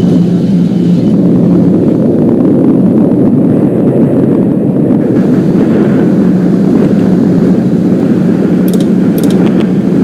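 Subway train running on the rails: a loud, steady rumble with a low hum, and a few short high-pitched ticks near the end.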